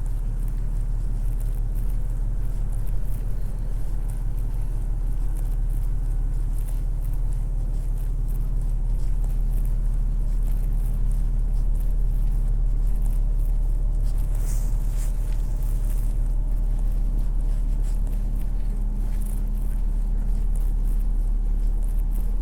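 Steady low rumble of city road traffic, with a low engine hum joining about nine seconds in.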